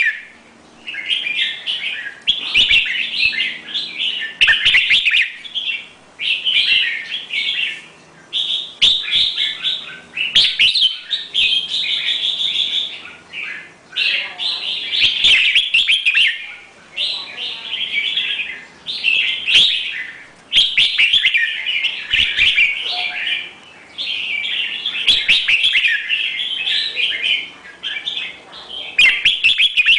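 A songbird singing the same short, warbling phrase over and over, about one every two seconds, with sharp clicks between phrases.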